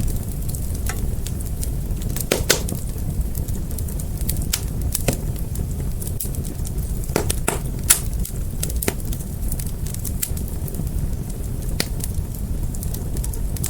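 Fire crackling: irregular sharp pops and snaps over a steady low rumble of the flames, the loudest pop coming about eight seconds in.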